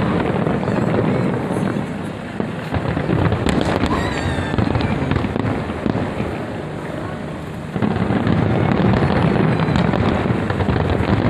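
Large aerial fireworks display, many shells bursting in quick succession: a dense, continuous run of booms and crackles that grows louder about eight seconds in.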